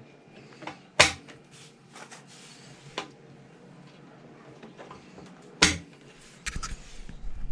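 Sharp clicks and knocks of small hardware being handled and fitted to a chrome bumper: two loud snaps, about a second in and about five and a half seconds in, with lighter taps between. A low rumble comes in near the end.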